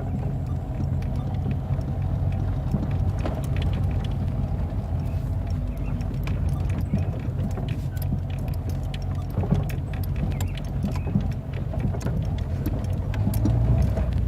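Car driving: a steady low engine and road rumble, with many small rattles and clicks throughout.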